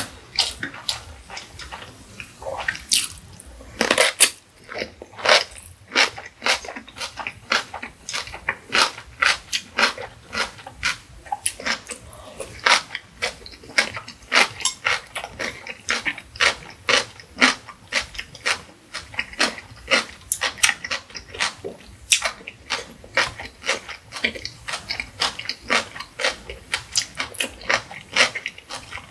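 Close-miked chewing of crisp stuffed cucumber kimchi (oi-sobagi): wet crunches and mouth clicks, several a second, with one louder crunch about four seconds in.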